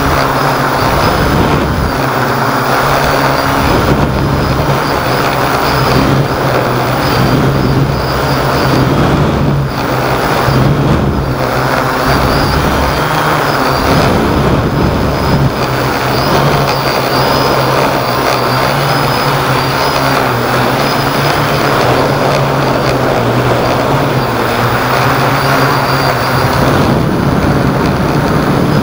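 Hexacopter's electric motors and propellers running with a steady hum, and strong wind buffeting the microphone with an uneven low rumble.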